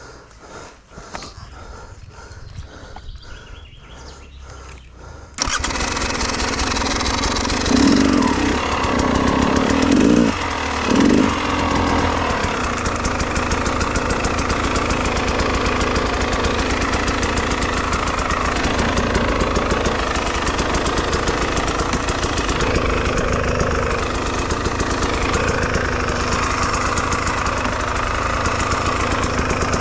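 Enduro motorcycle engine starting suddenly about five seconds in, then running steadily at a fast idle. It is revved briefly two or three times soon after starting.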